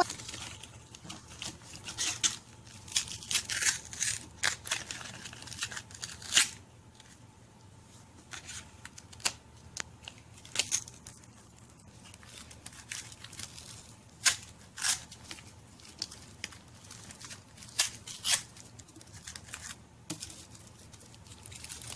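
Foil wrapper of a Kinder Surprise egg being torn and crinkled by hand, in irregular sharp crackles with short quiet gaps.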